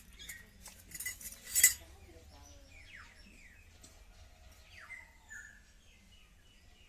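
A few light metal clinks, the loudest about a second and a half in, then several short downward-sliding bird chirps.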